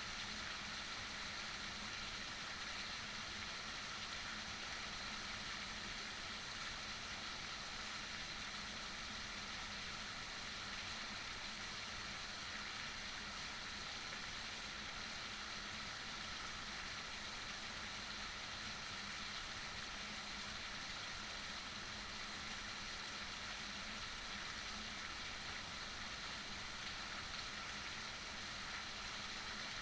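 Steady heavy rain, an even hiss that holds without change.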